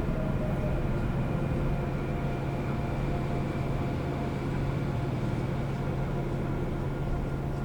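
Interior running noise of a Seoul subway train car: a steady low rumble and hum with faint whining tones from the traction motors.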